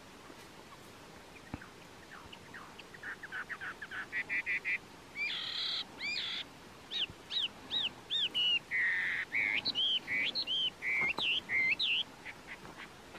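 A songbird singing a long, varied song of rapid trills, a couple of harsh buzzy notes, then a run of repeated down-slurred whistles and other changing phrases.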